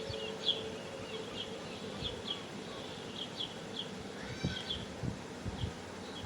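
Small animals chirping: short high chirps come irregularly, with one longer call falling in pitch about four and a half seconds in, over a steady background hiss.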